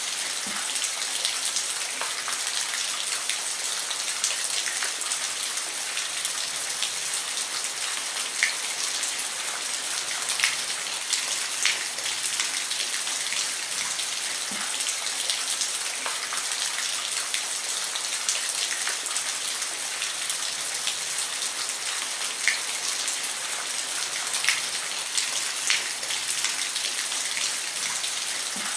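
Steady rain falling on a roof: a continuous hiss with scattered sharper drop ticks, a few standing out, such as about ten to twelve seconds in and near twenty-five seconds.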